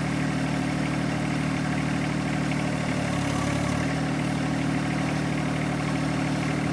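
John Deere 1025R compact tractor's three-cylinder diesel engine idling steadily, with a brief change in the engine note about halfway through.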